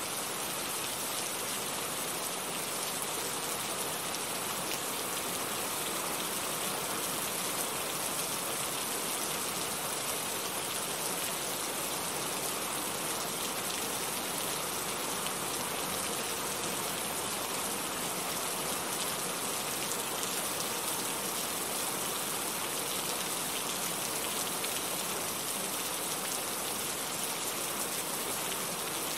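Heavy rain falling in a steady, even hiss with no breaks.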